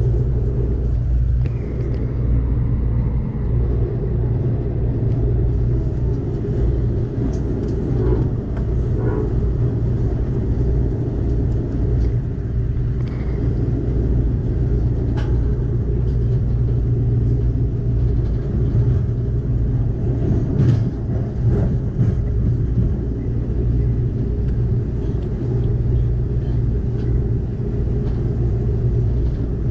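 Passenger train running at speed: a steady low rumble of wheels on rail with scattered clicks and knocks, while a freight train passes close alongside on the next track for much of the time.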